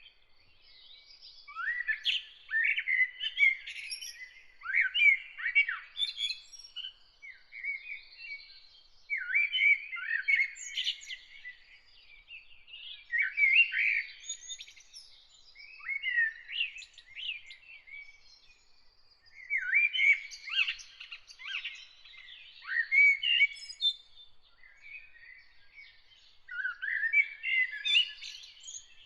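Songbird singing in repeated phrases of quick, warbling chirps, a new phrase every few seconds with short pauses between.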